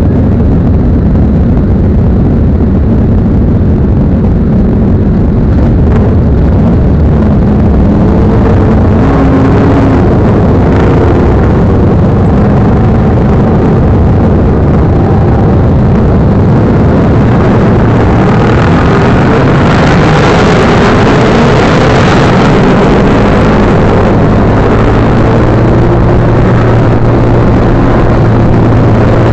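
Motorcycle engine running continuously, its pitch rising and falling with the throttle.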